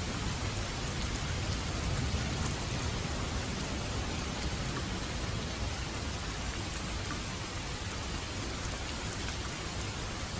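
Steady rain falling: an even hiss with many scattered drop ticks and a low rumble underneath.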